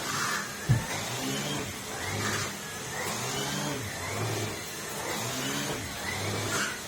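Numatic Henry vacuum cleaner running, its motor pitch rising and falling over and over as the nozzle is worked back and forth. There is one sharp knock near the start.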